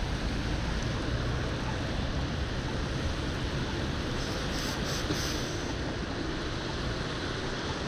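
Steady rushing noise of wind and road while riding a bicycle.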